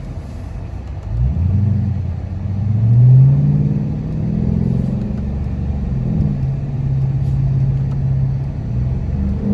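Straight-piped Dodge Charger exhaust as the car accelerates: the engine note rises for about two seconds to its loudest around three seconds in, then settles into a steady tone at cruising speed.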